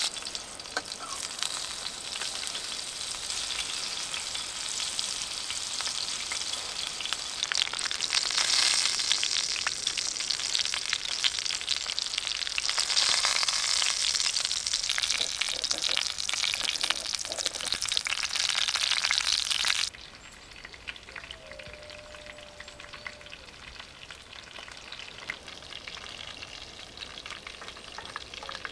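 Food frying in a pan over a campfire: a dense sizzle full of fine crackles, which drops suddenly to a quieter sizzle about twenty seconds in.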